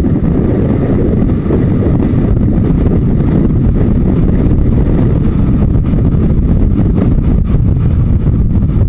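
Yamaha XJ900S Diversion's inline-four engine running while the motorcycle is ridden, under heavy, steady wind rush on the microphone.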